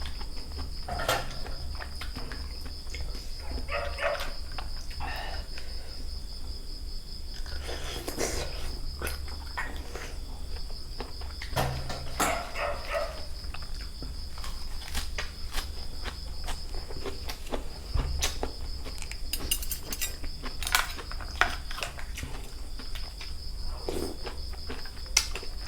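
Chewing and crunching of food with many sharp clicks, over steady high-pitched insect chirping and a low rumble.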